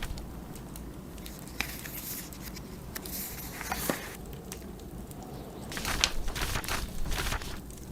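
Pages of a paper book being turned, rustling twice, once around the middle and again near the end, over crackling fireplace and the low steady rumble of blizzard wind.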